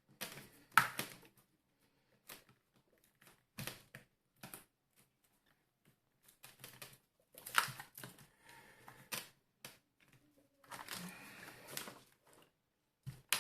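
Irregular plastic clicks and knocks from a Tefal steam iron's plastic housing being pried open with a tool.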